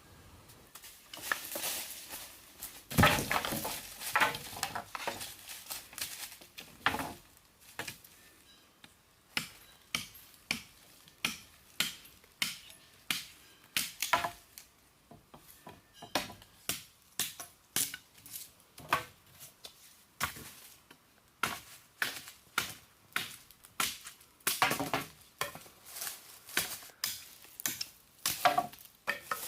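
Chopping with a blade: irregular crunching strokes at first, then a steady run of sharp chops at about one and a half a second.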